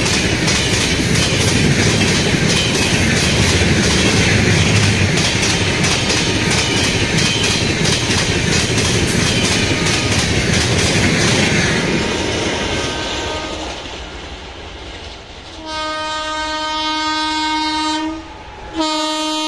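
Passenger coaches of an express train passing close by at speed, the wheels clattering in rapid clicks over the rail joints, then fading away. Then two long blasts of a WAP-7 electric locomotive's horn, the second starting near the end.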